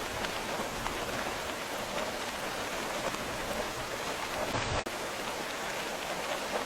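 Steady rain falling, a dense even hiss flecked with small drop ticks, with a momentary dropout about five seconds in.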